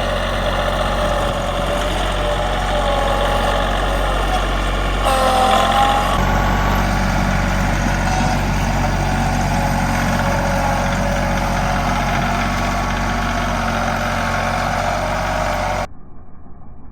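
A Kubota compact tractor's engine running steadily while plowing snow, with a whine that briefly rises and dips about five seconds in. It cuts off suddenly near the end.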